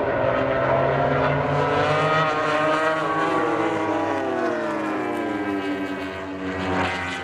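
MotoGP race bike engine at high revs. Its pitch falls steadily over a few seconds from about three seconds in.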